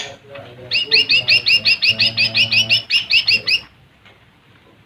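Lesser green leafbird (cucak ijo mini) singing a fast, even run of about twenty high, down-curving chirps, roughly seven a second, for about three seconds, then stopping abruptly. A brief sharp noise sounds at the very start.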